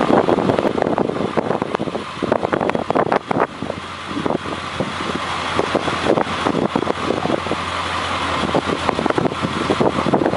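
An engine of the machine lowering the boat back into the water, running steadily, with wind buffeting the microphone.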